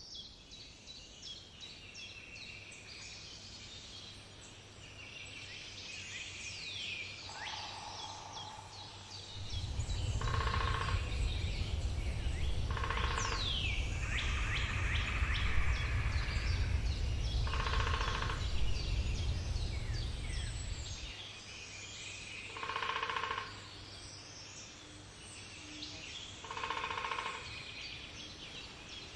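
Several wild birds chirping and singing, with a lower call of about a second repeated every four to five seconds. A low rumble comes in about ten seconds in and stops around twenty seconds.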